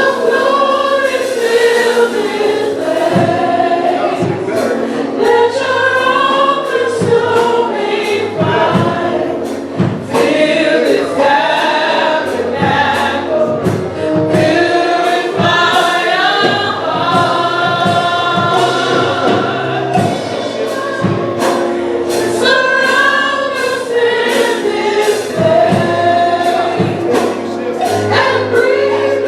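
Gospel choir singing with band accompaniment, with percussion hits keeping a beat.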